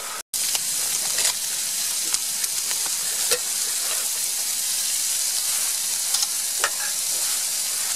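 Stir-fry of beef, peppers and onion sizzling steadily in a hot pan, with a few light clicks. The sound drops out for a moment just after the start.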